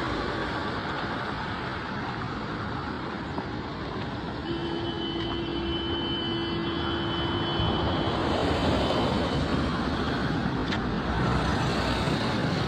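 Road traffic noise: vehicles running along a busy road, with a steady pitched tone held for about three seconds midway.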